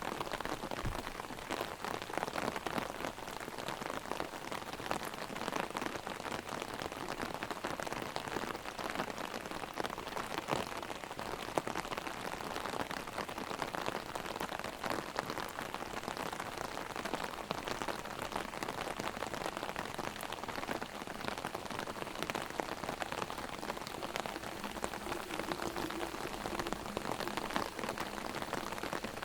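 Heavy rain drumming on an open umbrella overhead, a steady dense patter of drops with many small ticks.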